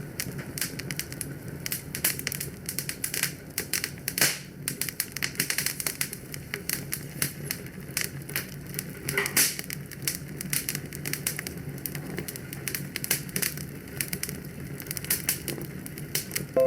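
Fire in a fireplace crackling, with many irregular sharp snaps over a low steady rumble. Louder pops come about four seconds in and again about nine seconds in.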